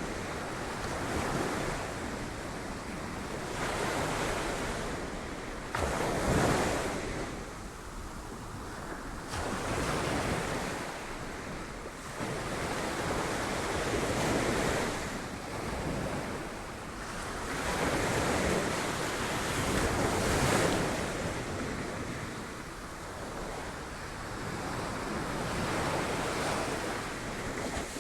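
Sea waves breaking on rocks, the surf coming in surges every few seconds over a constant wash, with some wind on the microphone.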